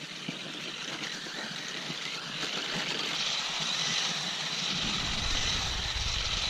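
Battery-powered toy RC car driving through snow, its small electric motor running with a steady high whine and hiss. A low rumble comes in about three-quarters of the way through.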